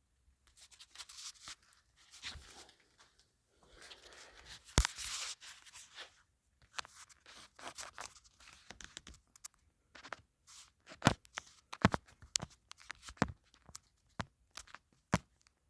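Scattered sharp clicks, scrapes and short rustles of handling, irregular and denser in the second half; the motorcycle engine is not running.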